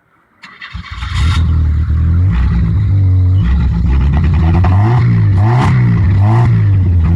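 1998 Chevrolet S10's 2.2-litre four-cylinder engine starting about a second in, then revved again and again, pitch rising and falling, through a Cherry Bomb muffler.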